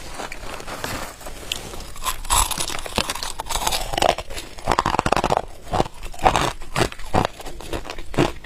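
Ice being bitten and chewed, a run of crunches that settles into about two a second in the second half.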